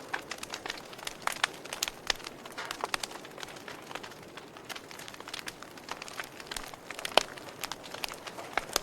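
Wood fire crackling, with irregular sharp pops and snaps over a soft hiss; one louder pop about seven seconds in.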